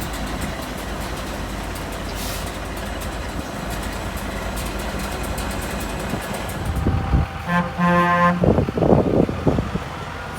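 Heavy diesel truck engine running with a steady, pulsing rumble. About three-quarters of the way through, a short double horn toot sounds, followed by a few loud low bursts.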